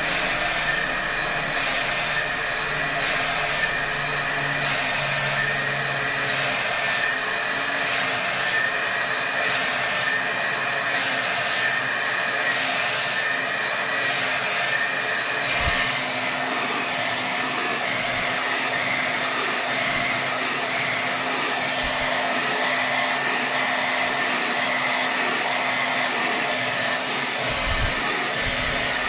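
Hair dryer running at full power: a steady rush of air with a high whine. A slow, regular pulsing in the airflow for the first half evens out about halfway through.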